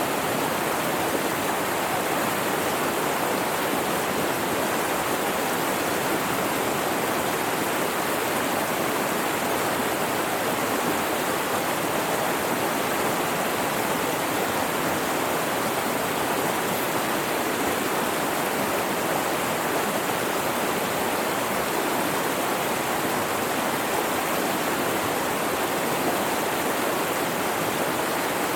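Mountain river rushing steadily, a continuous even wash of flowing water.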